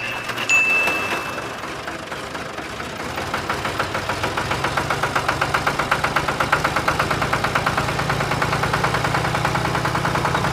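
An engine running steadily at idle, with a fast even ticking over a low hum that builds over the first few seconds. A single ding sounds just after the start.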